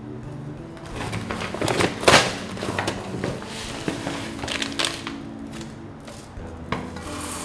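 Scattered knocks and clicks of food preparation and handling utensils, the sharpest knock about two seconds in.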